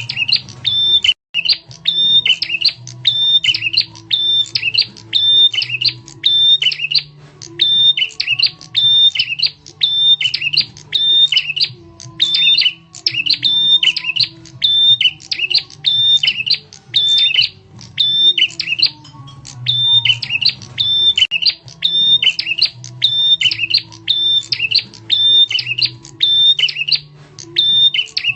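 Prenjak (prinia) lure call: loud, sharp chirping notes repeated rapidly and evenly without pause, over a faint low hum.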